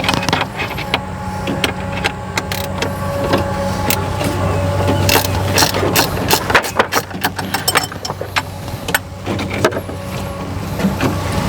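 An engine running steadily at idle, with a low hum, under a scatter of sharp metallic clicks and clanks from hand work on the machine.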